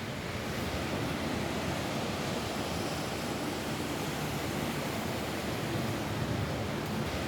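Rain falling steadily on a roof, a dense, even hiss with no separate drops or breaks.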